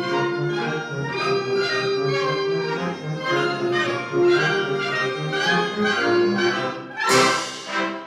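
Community concert band playing sustained chords in brass and woodwinds, with a loud accented hit about seven seconds in.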